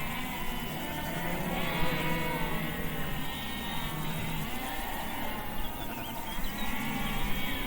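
Flock of sheep bleating, many calls overlapping one another, over a steady low hum that comes and goes.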